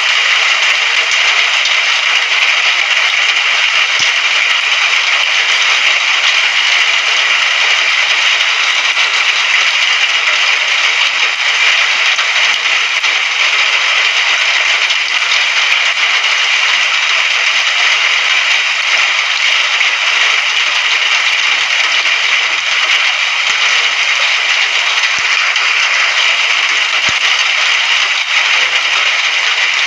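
Steady rain: a dense, even hiss of falling drops that holds at the same loudness throughout.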